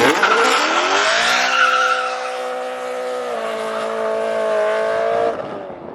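A Ford Mustang doing a burnout: the engine held at high, steady revs while the tyres spin and squeal. The revs step up slightly partway through, and the sound cuts off about five seconds in.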